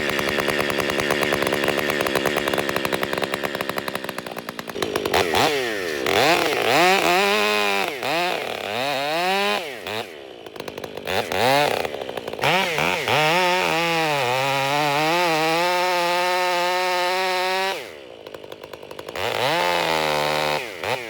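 Chainsaw cutting a felling notch into a tree: the engine runs at high revs through the cuts, sweeping up and down in pitch as the throttle is worked. It falls back to idle briefly about three times, near the middle and shortly before the end.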